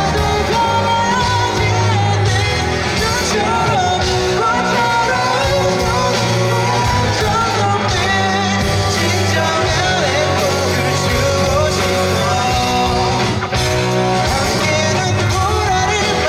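A man singing a rock song live over rock band accompaniment with guitar and bass.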